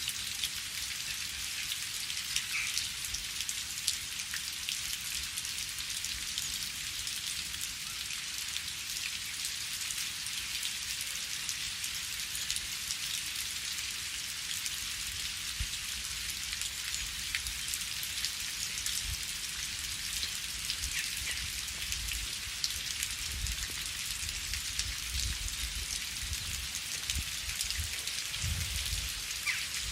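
Steady rain falling: an even hiss of many drops with individual drop ticks. Low rumbling comes in during the last several seconds.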